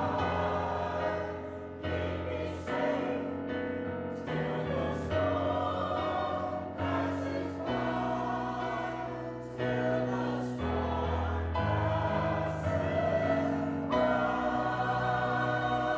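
Church choir singing in harmony, with held chords that change every second or so.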